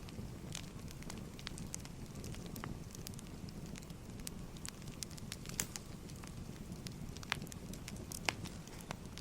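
Wood fire crackling: a steady low rumble of burning logs with scattered sharp pops and snaps, the loudest about five and a half and eight seconds in.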